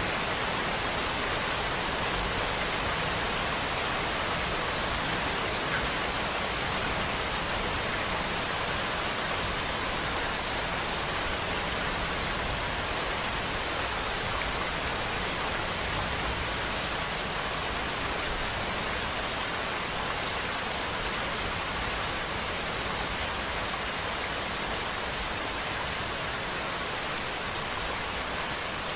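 Continuous rainfall: a steady, even hiss of rain falling on surfaces, with no letup.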